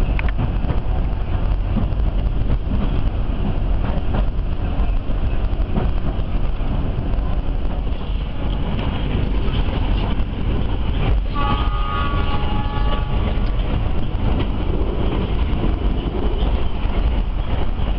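Argo Dwipangga passenger train running at speed, heard from inside the coach as a steady rumble with occasional knocks from the wheels. A little past the middle, a train horn sounds for about two seconds.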